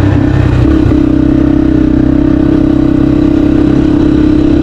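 Dirt bike engine running loud at fairly constant revs while being ridden, its pitch shifting slightly then holding steady from about a second in.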